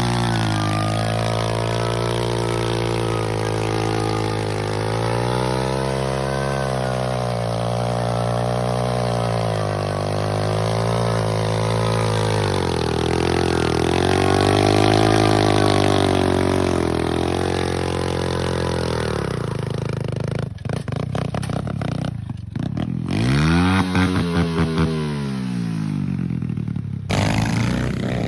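Small single-cylinder minibike engine running and being revved, its pitch rising and falling slowly. Near the end come several quicker, sharper blips of the throttle.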